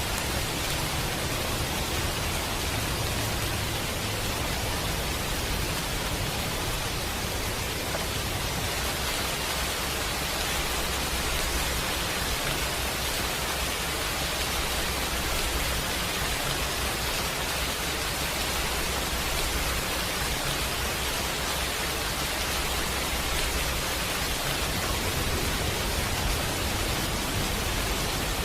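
Steady rain, an even hiss without breaks, over a low rumble.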